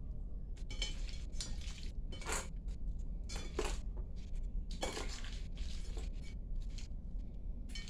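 Dishes and cutlery clinking and scraping during food preparation: a string of short, irregular knocks and scrapes over a steady low rumble.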